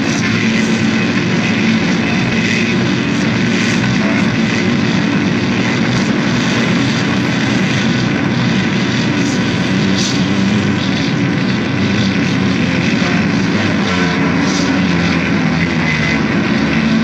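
Loud, steady wall of dense noise with a low droning hum underneath, unbroken and without clear beats, typical of harsh-noise music.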